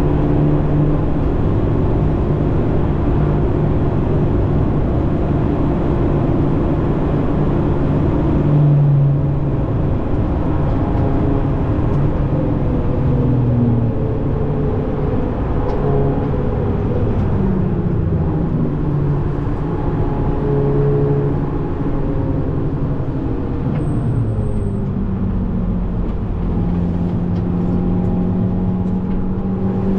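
Tuned VW Golf 7.5 GTI Performance's 2.0-litre turbocharged four-cylinder engine, heard from inside the cabin at track pace. Its note rises and falls with speed and DSG gear changes, with a sharp break about nine seconds in, a long fall in pitch through the middle as the car slows, and a climb again near the end, over steady tyre and road noise.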